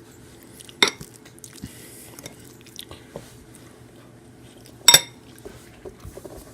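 Metal cutlery clinking sharply against a dish twice, about a second in and again near five seconds, with faint small clicks between.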